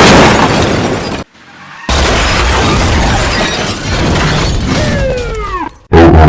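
Car crash sound effect: a loud smash with breaking glass, a short gap about a second in, then a longer stretch of crashing and shattering noise with a few falling tones near the end.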